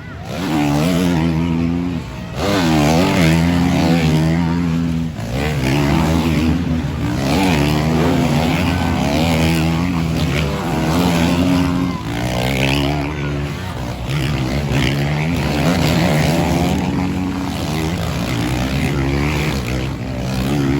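450cc four-stroke motocross bikes racing on track, their engines revving up and falling back over and over as several bikes run together.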